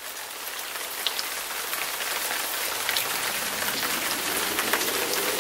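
Rain pattering steadily and growing louder. Near the end a siren's tone begins to rise faintly out of it.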